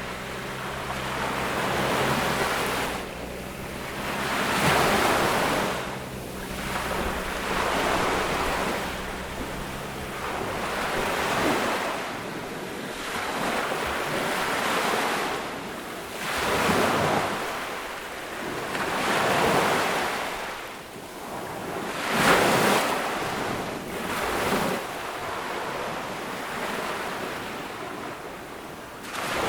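Ocean waves breaking and washing up on a tropical beach, one surge every two to three seconds, with the biggest about three quarters of the way through. A low steady hum sits underneath for roughly the first third.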